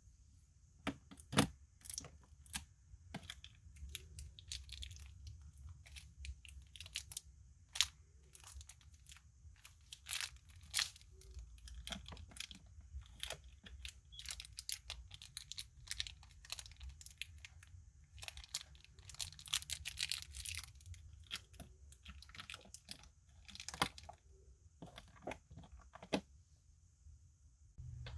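Unboxing a toy figure: packaging being handled and torn open, with irregular crackles, crinkles and sharp clicks, and a denser stretch of rustling about two-thirds of the way through.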